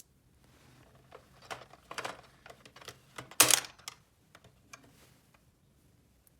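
Irregular small clicks and rustling from handling small objects, with one louder, longer rattle about three and a half seconds in.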